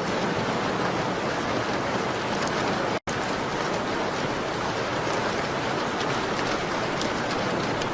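Steady rain on a window, an even hiss with faint scattered ticks. It cuts out for an instant about three seconds in, then carries on unchanged.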